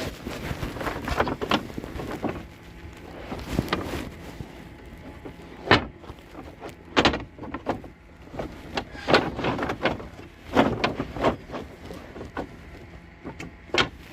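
Irregular knocks, bumps and short scrapes, more than a dozen spread over the stretch, with the sharpest strikes about six, seven and nine seconds in.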